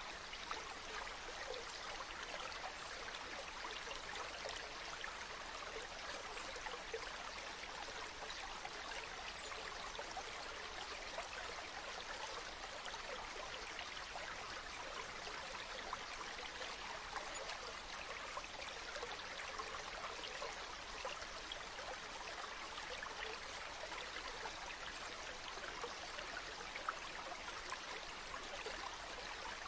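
A stream running steadily: an even rush of flowing water with fine splashes throughout.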